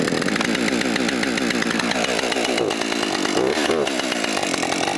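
Husqvarna 550XP two-stroke chainsaw running at steady volume after a start. It is the saw that the owner says turns over but won't stay running and cuts out.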